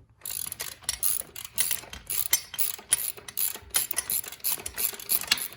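Hand ratchet wrench clicking rapidly as it turns a dirt bike's rear suspension linkage bolt loose.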